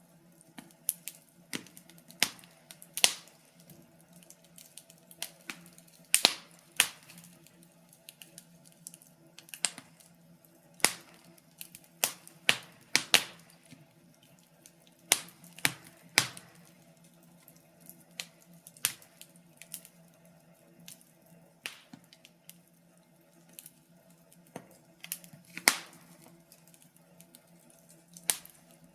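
Wood fire crackling, with irregular sharp pops and snaps, some much louder than others, over a faint steady low hum.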